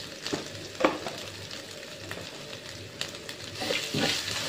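Chopped aromatics and spice powder sizzling steadily in hot oil in a frying pan, with a few sharp clicks, the loudest about a second in. Near the end a spatula starts stirring and scraping through the mixture, and the sizzling gets louder.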